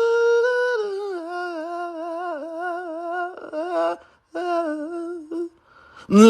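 Arctic wolf howling: one long howl held steady, then dropping in pitch and wavering, with a brief break about four seconds in before it trails off near the end.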